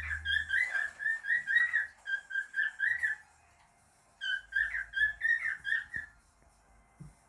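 Pet cockatiel whistling a song: quick runs of short, bending whistled notes in two phrases with a pause between, about a second apart. There is a soft thump near the end.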